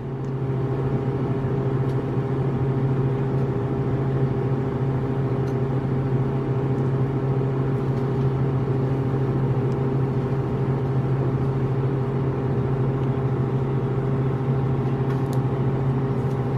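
Steady motor hum at one constant pitch, unchanging throughout.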